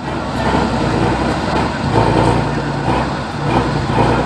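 Heavy off-road trial truck's diesel engine running, a continuous low drone with rumbling noise over it.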